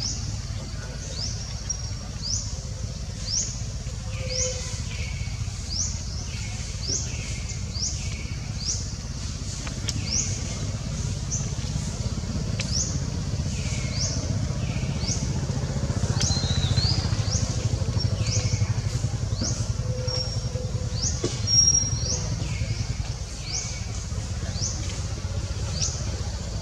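A bird repeating a short rising call roughly once a second, over a steady low rumble.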